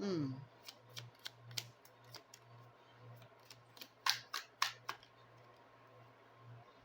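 Scattered sharp clicks and snaps of a baralho cigano (Lenormand) card deck being shuffled and handled, with a cluster of four louder snaps about four seconds in. A brief falling hum of voice comes at the very start, and a faint low hum runs beneath.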